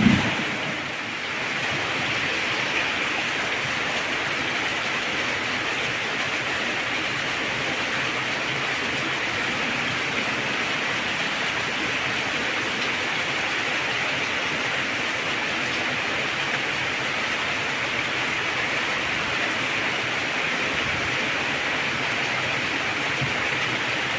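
Heavy rain falling in a steady, even downpour, with a short low rumble at the very start.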